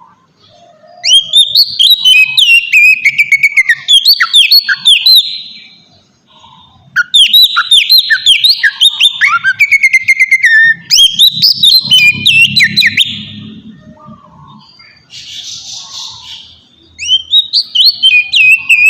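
Oriental magpie-robin (kacer) singing a lure song: four phrases of rapid, repeated falling whistled notes with short pauses between them, and a short harsh burst about fifteen seconds in. This song is played to provoke other kacer to answer.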